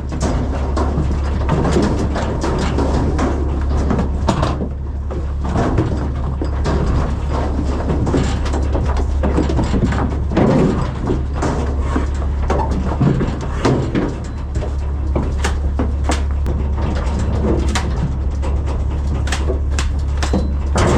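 Livestock being loaded into a metal stock trailer: scattered knocks and clatter of hooves against the trailer and low animal calls, over a steady low hum.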